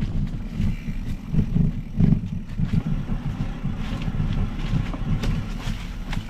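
Wind buffeting the microphone of a moving mountain bike, an uneven low rumble, with faint clicks and rattles from the bike rolling over the trail.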